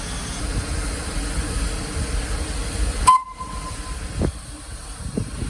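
West Coast Wilderness Railway train running, a steady rumble with hiss over it. About three seconds in it cuts off abruptly with a short click and a brief beep, and a quieter background with a couple of knocks follows.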